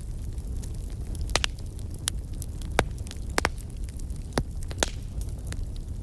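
Wood fire burning in a fireplace, crackling with sharp pops every second or so over a steady low rumble.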